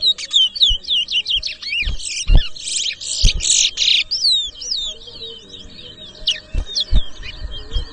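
Caged towa-towa finches singing fast chirping, warbling song in a bird-song race, where each completed song is counted toward the score. A harsher, rasping trill stands out from about two and a half to four seconds in, with a few soft low thumps.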